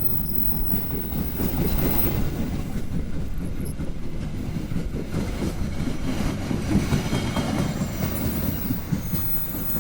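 Jayakarta passenger train running on the rails: a steady low rumble with the clickety-clack of wheels over the rail joints.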